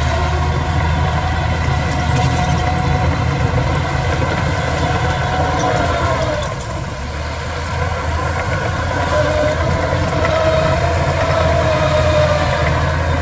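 Heavy diesel engine of earthmoving machinery running steadily, with a whine above it that slowly rises and falls in pitch; it eases off briefly about halfway through.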